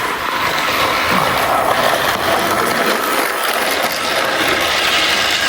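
Battery-powered Thomas & Friends toy train's motor and gears whirring steadily as it runs.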